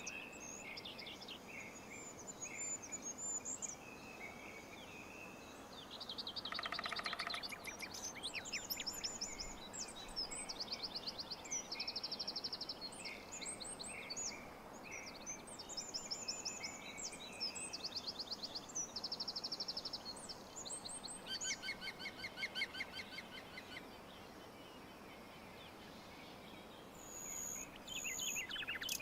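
Several songbirds singing, with rapid trills and quickly repeated high notes that overlap one another, over a steady faint hiss.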